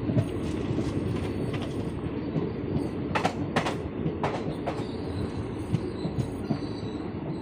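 Passenger express train running on the track: a steady rumble with the wheels clattering over the rails, and a few sharp metallic clanks about three to five seconds in.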